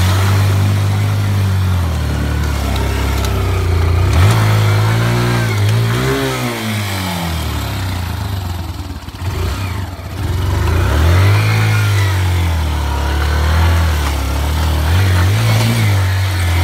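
Off-road vehicle's engine revving up and falling back several times as it works under load. It drops low for a moment about halfway through, then picks up again.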